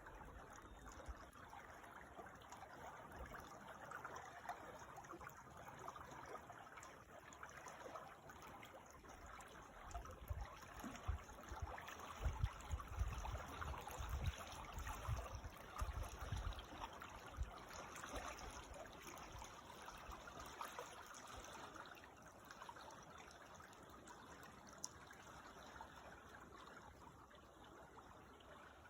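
Creek water flowing and trickling in a steady wash, with a few low rumbles about a third to halfway through.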